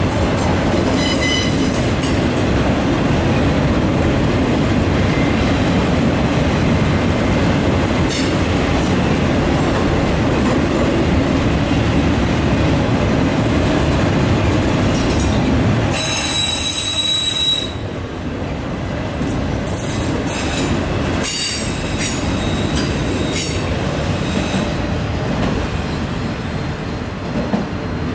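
Freight train of autorack cars rolling by: a steady rumble of steel wheels on rail, with high wheel squeals. The loudest squeal comes about two-thirds of the way through, after which the sound drops somewhat in level.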